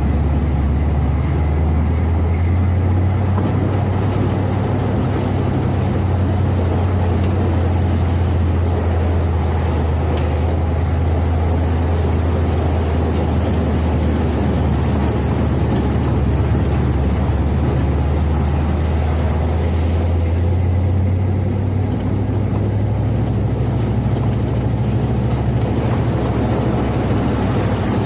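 First-generation Dodge Ram pickup's engine droning steadily while driving. The drone changes slightly in tone about two-thirds of the way through.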